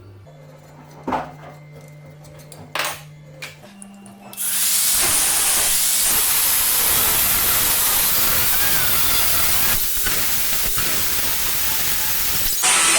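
A few light clicks over a low hum, then a loud, steady hiss starts about four seconds in and holds, changing slightly near the end.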